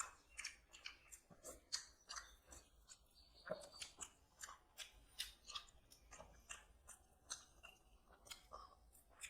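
Faint, irregular crisp crunches and clicks, about two or three a second.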